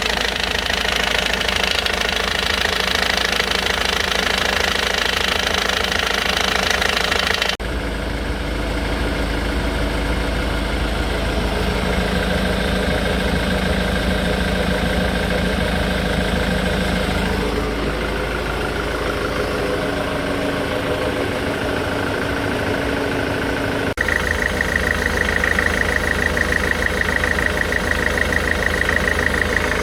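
Ford Mondeo Mk3 engine running at idle with a knock from the crankshaft pulley, which the owner takes for a failing crankshaft pulley. The sound changes abruptly twice as the recording cuts, and in the last few seconds a steady high whine is heard over the engine.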